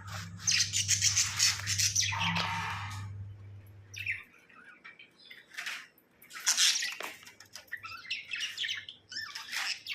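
Budgerigar chirping and chattering in bursts, busiest in the first three seconds and then in short separate spurts. A low steady hum stops about four seconds in.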